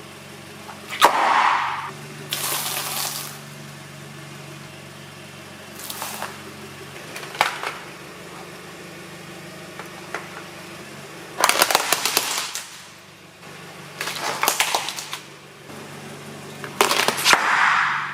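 A car's tyres rolling over and crushing brittle objects: a sharp crack about a second in, then several bursts of cracking and crackling. A car engine runs steadily underneath.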